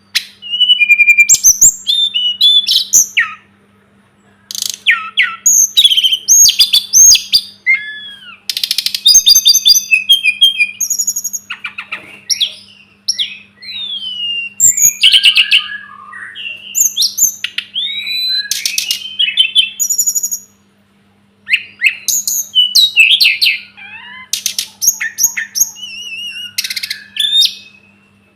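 A tledekan gunung (sulingan gunung) songbird singing a varied song of quick high whistles, trills and sliding notes. It sings in bouts of several seconds, with short pauses about 4, 12 and 21 seconds in.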